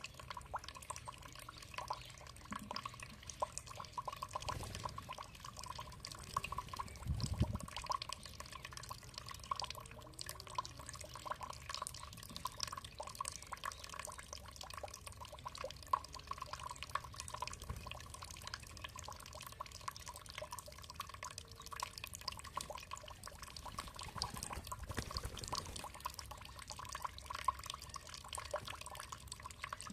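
Running water trickling and dripping, a dense patter of small splashes over a steady flow, with a few soft low thumps.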